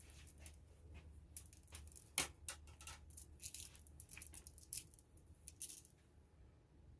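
Irregular light clicks, taps and rustles of small painting tools being handled on a work surface for about six seconds, the sharpest click about two seconds in, over a faint steady hum.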